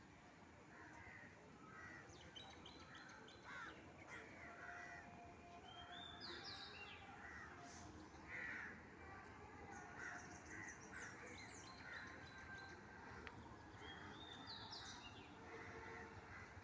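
Faint outdoor birdsong: repeated crow-like caws with higher, quick chirps from smaller birds over a low background hiss.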